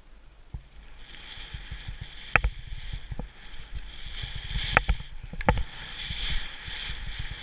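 Skis sliding over snow, a hiss that builds about a second in, with low rumble on the microphone and three sharp knocks.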